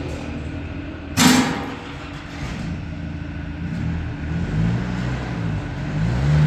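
A vehicle engine running steadily with a low hum, and one loud sharp bang or clatter just over a second in. Low voice-like sounds come in over the engine in the second half.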